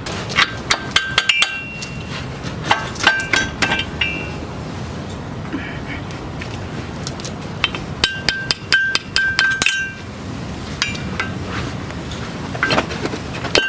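Metal tapping and clinking in short clusters, each tap ringing briefly: a tool working the small metal dust cover off a truck's front wheel hub.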